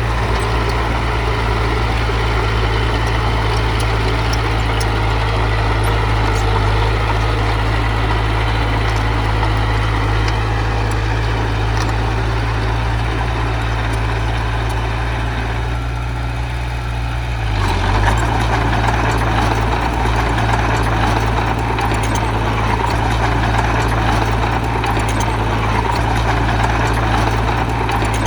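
Diesel engine of a heavy earthmoving machine running steadily under work. About two-thirds of the way through it eases off briefly, then picks up again.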